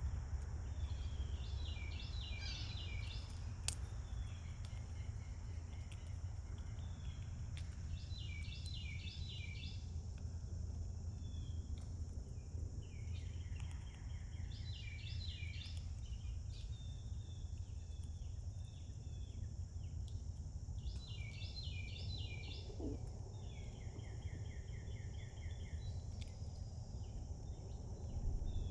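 A songbird singing phrases of rapid, jumbled notes, each lasting one to three seconds and repeating every several seconds. Under it runs a steady high insect drone and a low, steady rumble.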